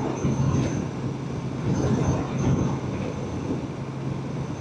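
Motorcycle engine running at a steady cruising speed, heard on the bike's camera together with wind noise.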